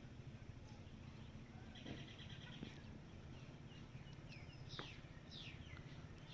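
Faint birdsong: several small birds giving short, high falling chirps, with a quick rattling trill about two seconds in, over a steady low rumble.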